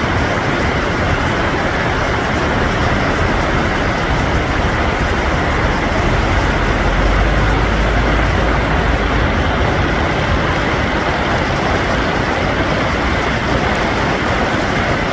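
Long train running past, a loud, steady rumbling noise, with the deep rumble swelling for a few seconds about halfway through.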